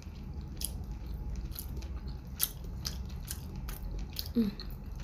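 Close-miked chewing: a mouth eating, with irregular wet clicks and smacks. A brief hum from the eater a little over four seconds in.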